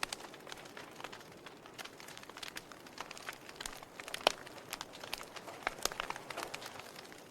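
Wood fire burning in a fireplace: irregular sharp crackles and pops of burning logs over a soft hiss, with one louder pop about four seconds in.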